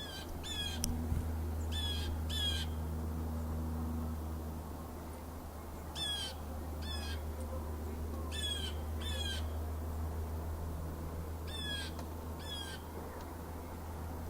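A bird calling outdoors: short, harsh calls that come in pairs, about ten in all. A steady low hum runs underneath.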